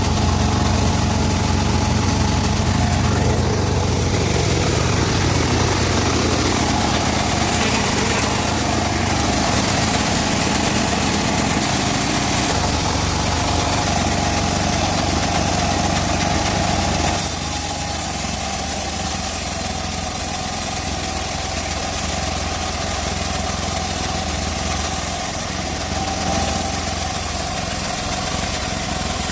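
Portable band sawmill running, its engine going steadily under a steady whine. About two-thirds of the way through the low engine sound weakens and the whole grows a little quieter.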